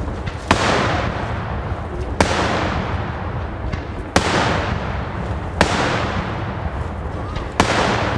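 Daytime aerial fireworks shells bursting in the sky: five loud bangs, one about every one and a half to two seconds, each trailing off in a long rolling echo, with faint small cracks between them.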